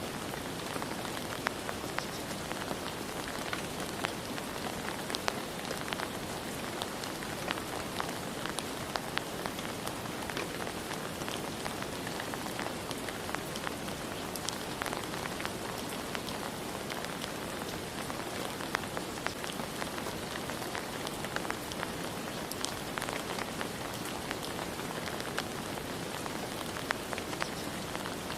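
Steady rain falling, with a constant hiss and many scattered individual drops pattering on surfaces close by.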